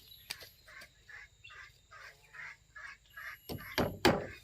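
Domestic ducks calling in a quick run of short calls, about three a second. Near the end, four loud sharp knocks of wood being struck break in over them.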